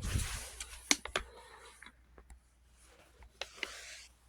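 Tools being handled at close range: a few sharp clicks around a second in and again near the end, with light rustling in between.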